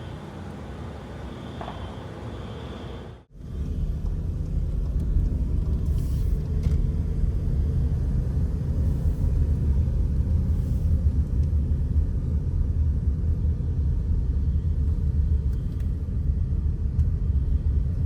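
A steady low rumble that begins after an abrupt cut a little over three seconds in. Before the cut there is a quieter hiss with a faint high tone.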